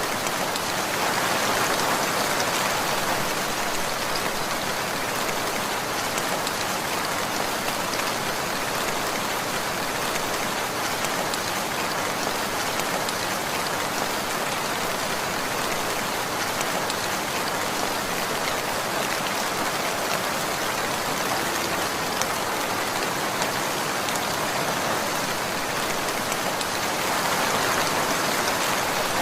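Steady rainfall: an even hiss of rain falling on surfaces, swelling slightly a couple of seconds in and again near the end.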